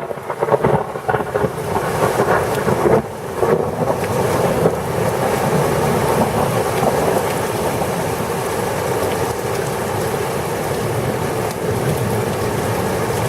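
Thunderstorm: heavy rain pouring down with thunder rumbling, uneven for the first few seconds and then a steady downpour.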